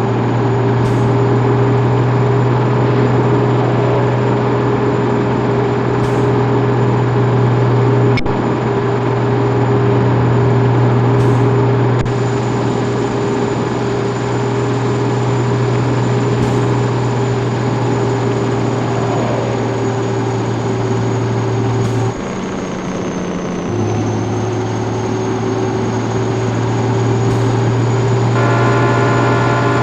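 Scania 110 truck's 11-litre straight-six diesel engine running steadily on the move. About two-thirds of the way through its note drops away for about a second and a half, then picks up again, lower at first and rising.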